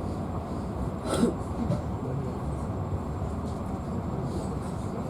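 Passenger train running along the track, a steady rumble of wheels and carriage, with one brief louder sound about a second in.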